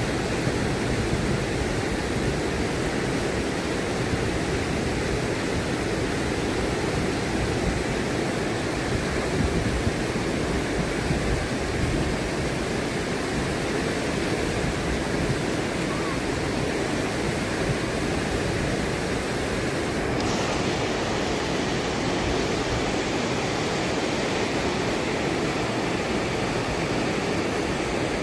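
Fast, turbulent river water rushing steadily, a continuous loud wash of noise with no break; its upper tone shifts slightly about twenty seconds in.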